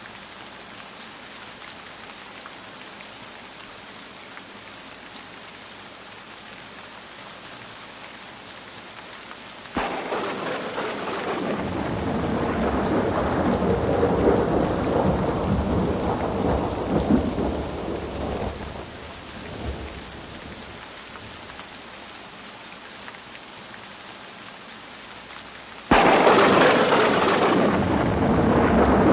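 Steady rain, with thunder: a clap about a third of the way in that rolls on for several seconds and fades, then a second, louder clap that starts suddenly near the end and keeps rumbling.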